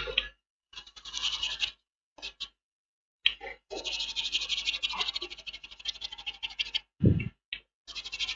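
A small hand tool scratching and scraping black underfill glue off an iPhone logic board in quick, short strokes, in several bursts with pauses between them and a short knock near the end.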